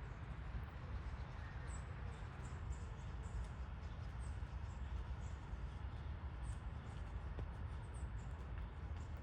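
Outdoor rain ambience: a steady hiss with a constant low rumble, and many brief, high chirps from small birds scattered through it.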